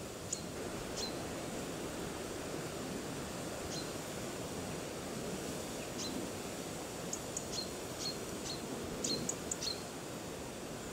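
Steady outdoor background hiss with short, high bird chirps scattered through it, each a quick downward note. A rapid run of chirps about nine seconds in is the loudest part.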